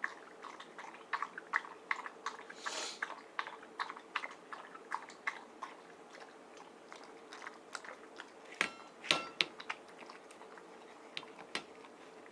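Miniature dachshund chewing and crunching its food in quick irregular bites, thinning out in the second half, with a couple of louder knocks about nine seconds in.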